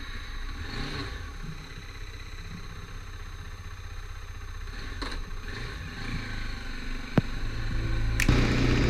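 Motorcycle engine running, gradually growing louder, with a sharp click about seven seconds in.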